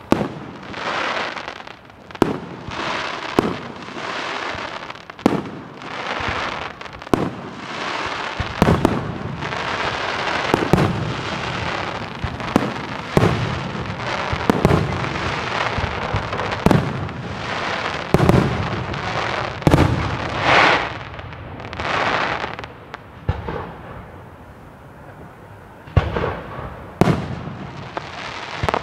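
Large display firework shells bursting in quick succession: many sharp bangs, some with an echoing tail, over a steady crackle and hiss of burning stars. It eases off briefly near the end before a few more bangs.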